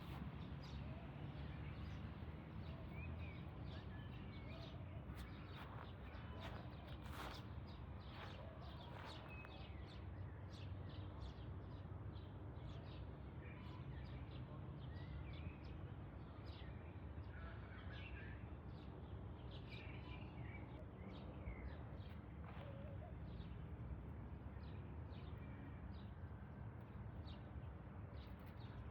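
Faint outdoor ambience: a steady low background noise with scattered short bird chirps.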